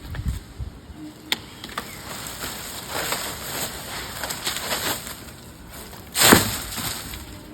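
Wood cracking and splintering, with scattered sharp snaps and a crackling rustle, then one loud heavy thud about six seconds in, as of a cut limb coming down. No chainsaw is running.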